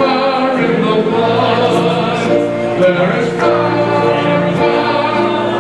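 A choir singing gospel music, with long held notes.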